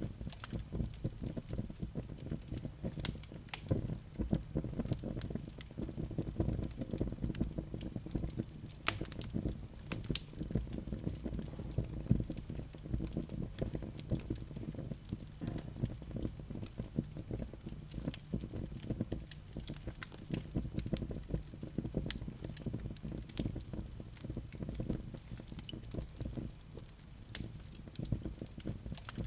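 Wood fire burning in a fireplace, with a steady low rumble of the flames and frequent irregular crackles and pops from the burning logs.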